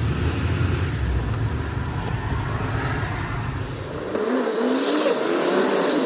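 Road and engine noise inside a moving car. About four seconds in, the low rumble drops away and a wavering tone with a rising hiss comes in.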